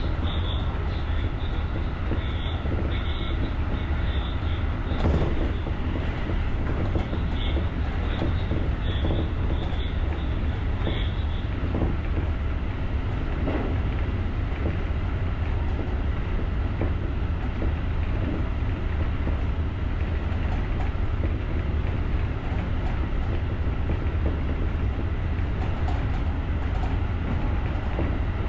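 JR rapid electric commuter train running along the track: a steady low rumble with faint clicks from the wheels. A faint high tone comes and goes during the first ten seconds or so.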